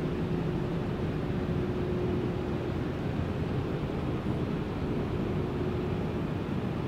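Steady background noise of a large showroom building, an even low rumble with a constant faint hum.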